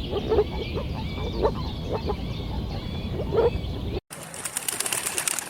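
Short animal calls repeating every half-second or so over a steady low rumble. About four seconds in they cut off abruptly, and a crackling hiss follows.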